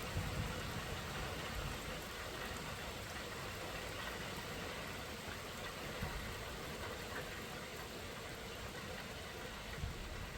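Steady rain falling, an even hiss, with an uneven low rumble underneath that swells in the first second and again near the end.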